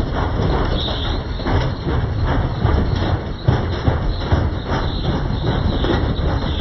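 Beko washing machine's drum running with a broken spider, rattling and knocking hard several times a second over a low rumble.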